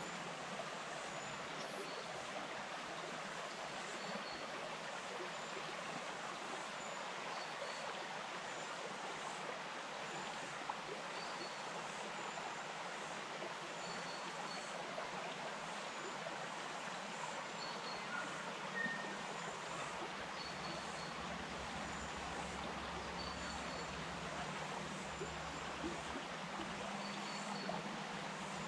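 Bush stream flowing: a steady, even rush of water over its bed. Faint short high chirps recur every second or two above it.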